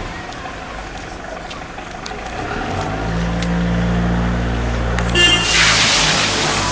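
A motor vehicle's engine runs with a low, steady hum that swells about three seconds in. Near the five-second mark there is a brief horn toot, followed by a loud, sustained hiss.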